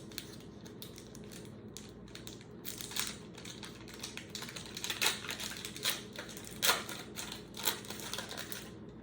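A trading-card pack being torn open and the cards handled: crinkling of the wrapper and light clicks and taps of cards, with several sharper crackles in the second half.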